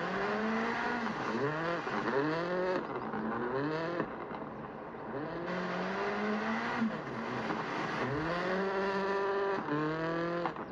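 Mazda MX-5 Miata (ND) 2.0-litre four-cylinder engine and exhaust under spirited driving with a manual gearbox, heard from inside the car: the revs climb and drop back over and over, about six times, as the driver accelerates, shifts and lifts through the curves.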